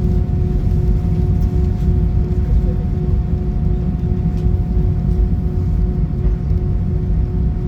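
Airbus A319 cabin noise on the ground after landing: a steady low rumble with a constant two-tone hum.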